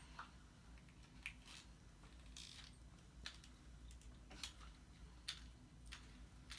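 Faint, irregular clicks and light taps, roughly one a second, over near silence.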